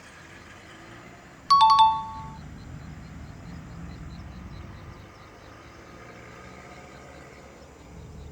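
A two-note electronic chime, a falling "ding-dong", sounds once about one and a half seconds in.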